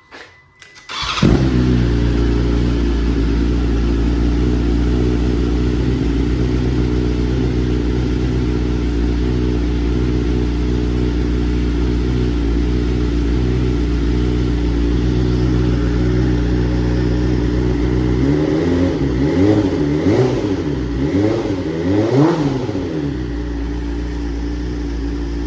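BMW M1000R inline-four engine breathing through headers, mid-pipes and the stock Akrapovič exhaust can. It starts about a second in and idles steadily to warm up. It is given a few quick throttle blips with rising and falling revs near the end, then drops back to idle.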